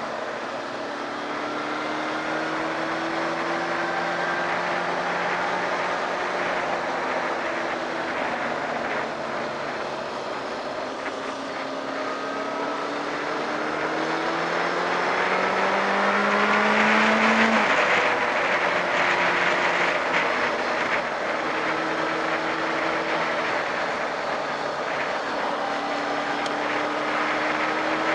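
Honda CB600F Hornet's inline-four engine running under way, with wind rushing past. Its revs climb for a few seconds past halfway, then drop suddenly.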